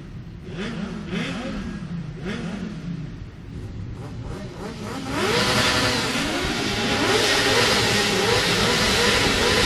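Motorcycle engines being revved again and again, the pitch rising and falling roughly once a second. About five seconds in, several engines rev together and it gets louder.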